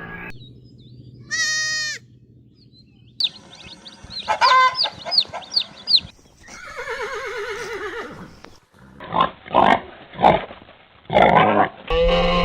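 Goats bleating: a string of separate calls, several of them wavering and trembling in pitch, with abrupt changes between calls.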